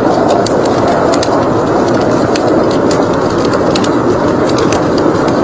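Wood fire crackling and popping in irregular snaps over a steady, dense rush of blizzard wind.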